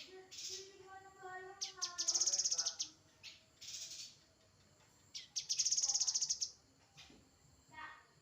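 Grey-headed canary-flycatcher song: lower whistled warbling phrases in the first few seconds, then a rapid, high, buzzy trill about a second long, and a short falling note near the end.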